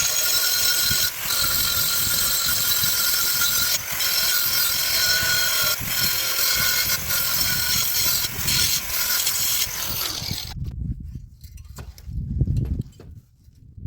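Angle grinder cutting through a pipe: a steady high whine over a loud hiss, with a few brief dips. The cut stops suddenly about ten and a half seconds in, and low handling thumps follow near the end.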